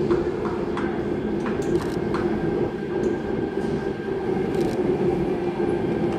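Sydney Trains Tangara electric train running slowly into a station platform: a steady hum with rhythmic wheel clicks over the rail joints, about two or three a second, that fade out after the first two seconds or so.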